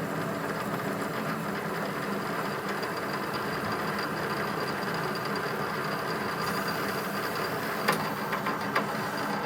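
A machine motor running steadily, with two short sharp knocks about eight seconds in.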